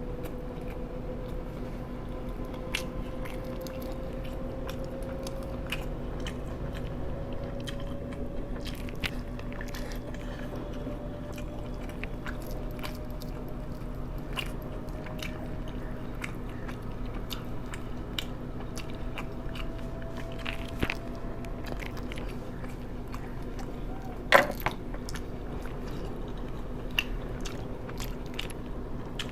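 A person chewing and biting food close to the microphone, with many scattered short crunches and clicks over a steady low hum. One sharp, louder knock comes near the end.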